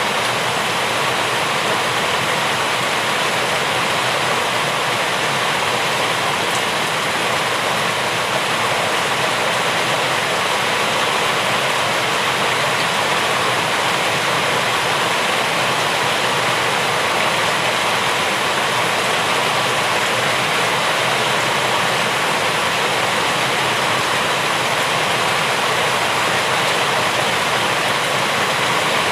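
Rain falling steadily: an even hiss of water with no separate drops or thunder standing out.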